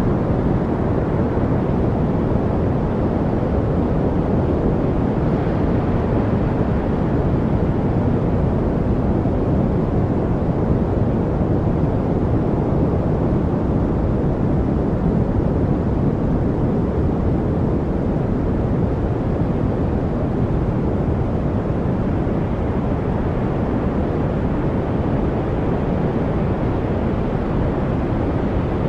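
Steady noise for masking, deep and dull rather than hissy, with its weight in the low range. There are no distinct sounds in it and no changes in level.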